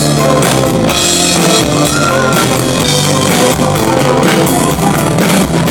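Live pop-rock band playing an instrumental passage between sung lines, with drum kit and electric guitars at a steady beat.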